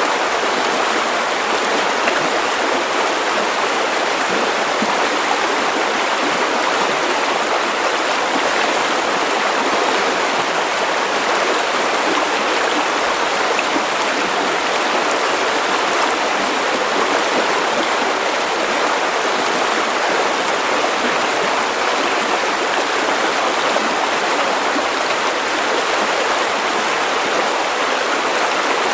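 River water running over stones, a steady rushing and babbling flow.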